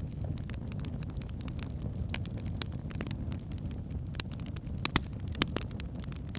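Wood fire burning in a fireplace: a steady low rumble with irregular sharp crackles and pops from the logs, the loudest pops about five seconds in.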